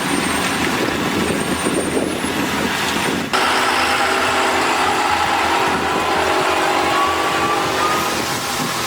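Heavy truck running with loud, steady engine and road noise, which changes abruptly about three seconds in.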